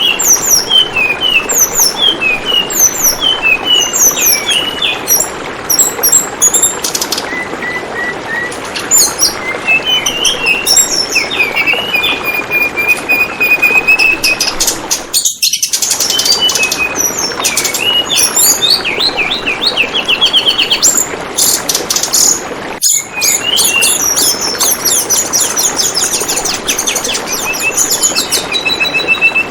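Tledekan bambu birds chirping and trilling in rapid short phrases over the steady trickle of flowing water. The sound cuts out briefly twice, about halfway through and again about three-quarters of the way through.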